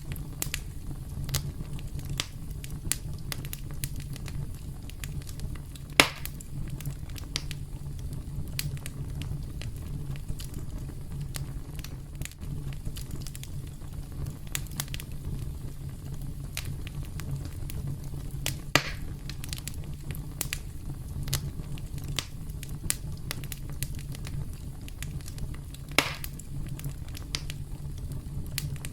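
Campfire crackling: a steady low rumble of burning under irregular snaps and pops of wood, with a few sharper, louder pops.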